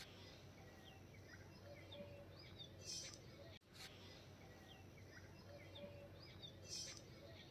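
Faint birds chirping in short repeated calls over quiet rural background noise, with two brief hissy rustles.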